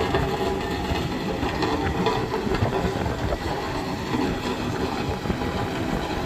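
Heavy diesel engines running steadily, a continuous loud mechanical rumble from the trucks and machinery on the road.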